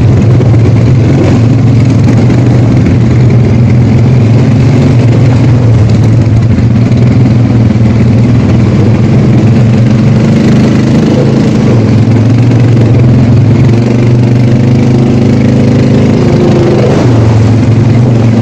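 ATV engine running steadily and loud, its pitch dipping briefly near the end before picking up again as the throttle changes.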